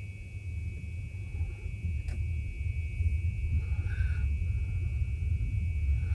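Low rumble of a sleeper train pulling away, growing louder as it gathers speed, with a steady high whine throughout and a single sharp click about two seconds in.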